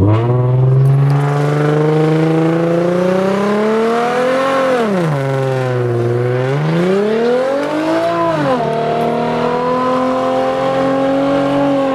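Car engine revved hard and held at high revs: the pitch climbs for several seconds, drops about five seconds in, climbs again, drops once more, then holds steady and high until it falls away near the end.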